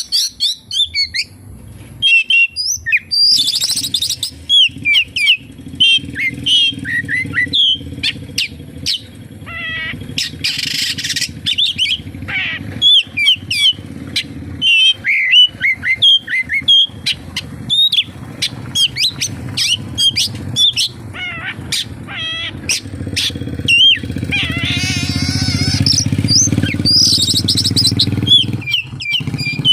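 Oriental magpie-robin (kacer) singing a fast, varied stream of sharp chirps, whistles and warbling trills, packed with mimicked calls of other birds, denser near the end. A steady low hum runs underneath.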